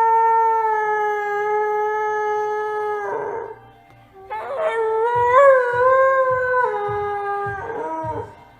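Dog howling: one long, steady howl that sinks slightly in pitch and breaks off about three seconds in, a breath, then a second howl that wavers up and down before a gasping intake of breath near the end. Background music with a regular beat runs under the second howl.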